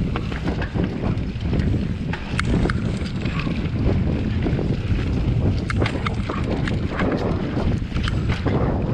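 Wind rushing over a GoPro's microphone while a mountain bike rides fast down a dirt trail, with the rumble of the tyres and scattered clattering ticks from the bike over bumps.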